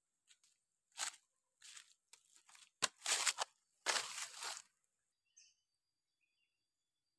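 A series of short crunching rustles, about six in four seconds, with a sharp click near three seconds in; faint insect or bird chirps follow near the end.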